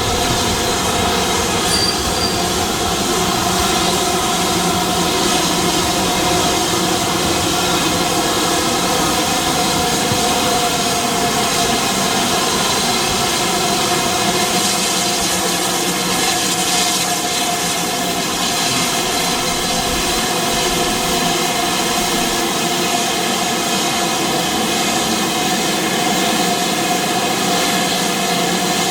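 Heritage railway train running steadily along the track: a continuous, even running noise with several steady tones held throughout.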